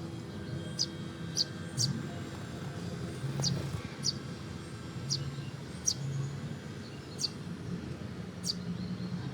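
A small bird giving short, sharp, high chirps that drop in pitch, about eight or nine at irregular intervals, over a steady low hum.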